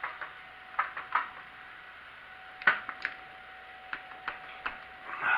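Thread tap being worked into a drilled hole in a steel T-nut blank: a string of sharp metallic clicks and knocks at irregular intervals, over a faint steady hum.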